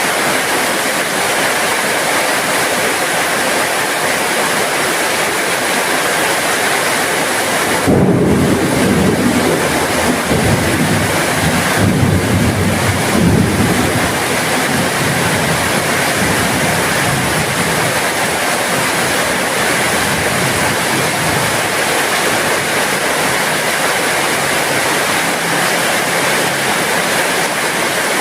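Steady heavy rain hissing, with a low rumble of thunder starting suddenly about eight seconds in and dying away over several seconds.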